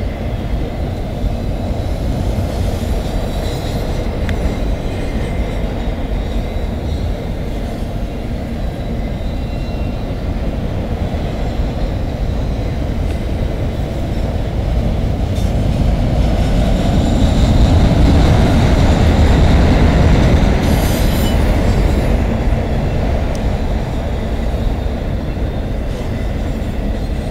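CN freight train's autorack cars rolling past on the rails: a steady low rumble of wheels and cars that swells about two-thirds of the way through, with brief high wheel squeal near that point.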